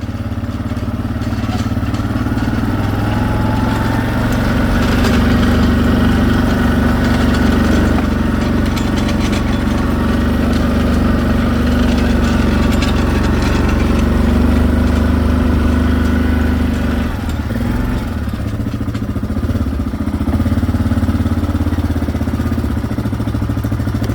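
A motor vehicle's engine idling steadily, its pitch holding much the same throughout.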